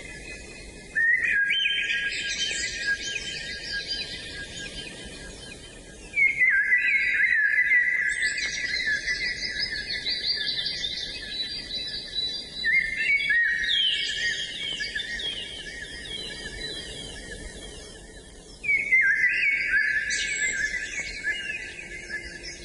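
Songbirds singing in four long bouts of rapid repeated high notes, each starting suddenly and fading over several seconds.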